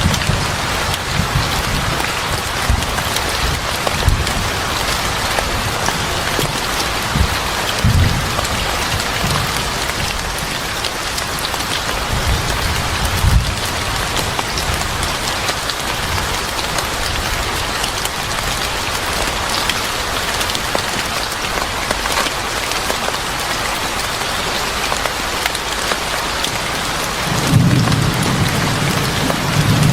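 Steady heavy rain with low rumbles of thunder: a couple of short ones, then a longer rumble starting near the end.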